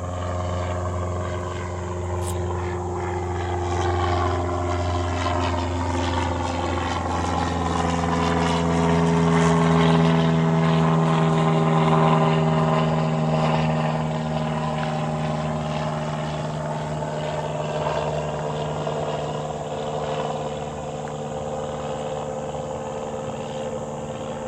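Aircraft passing overhead, its engine drone rising to a peak about ten seconds in, its pitch sliding down as it goes by, then slowly fading.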